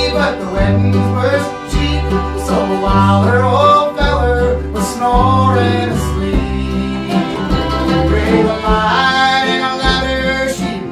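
String band playing live old-time music, with a bass note on about every beat under plucked strings and a bending melody line.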